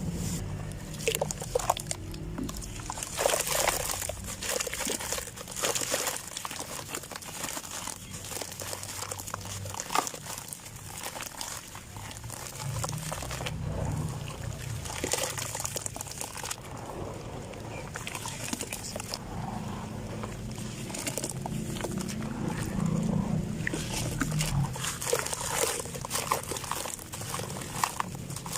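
Dry sand-cement and dirt clumps crumbling and being crushed: a continuous run of irregular crunches and small crackling clicks.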